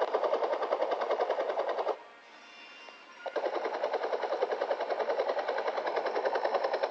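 Helicopter rotor chop, a fast, even pulsing that cuts out for about a second and a half near the middle and then comes back.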